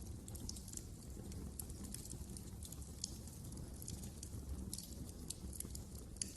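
Wood fire crackling: irregular sharp snaps and pops, a few of them louder, over a low steady rumble.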